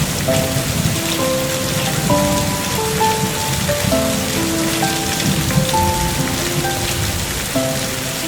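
Steady rain sound with a low rumble, overlaid by a soft, slow melody of held notes.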